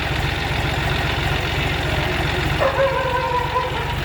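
John Deere tractor's diesel engine running steadily at a low idle, with an even, fast firing beat. A brief held tone about a second long sounds over it about two-thirds of the way through.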